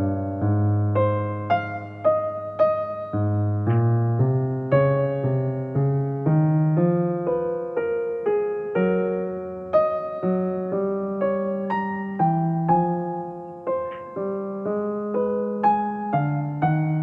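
Soft background music: a gentle piano melody, notes struck one after another and left to ring out.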